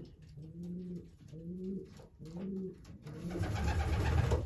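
Racing pigeons cooing in the loft: a run of low coos, each rising and falling, repeated about once a second. About three seconds in, a louder rustling noise comes in over them.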